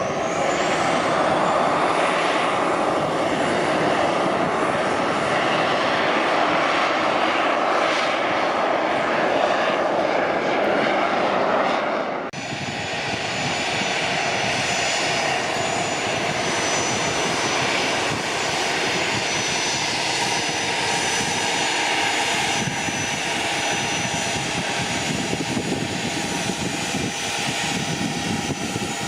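Kawasaki T-4 jet trainer engines running loud during departure. About twelve seconds in the sound cuts abruptly to a different business jet's turbofans, a steadier noise with a high, even whine.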